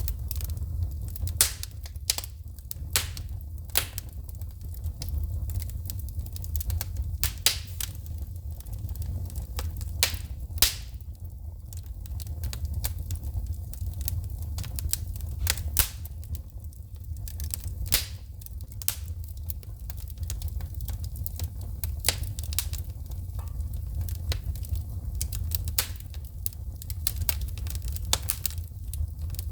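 Wood fire crackling, with frequent irregular sharp pops and snaps of sparks over a steady low rumble.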